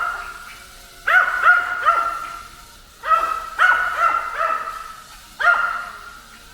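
A dog barking in rapid volleys of several barks, one volley about every two seconds, over a faint steady high whine.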